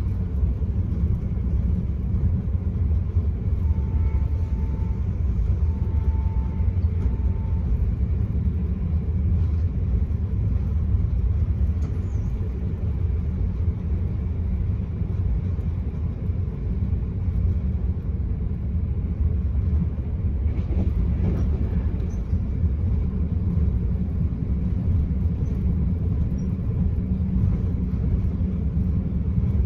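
Steady low rumble of an Enterprise passenger train running along the line, heard from inside the carriage. Two brief faint tones sound about four and six seconds in.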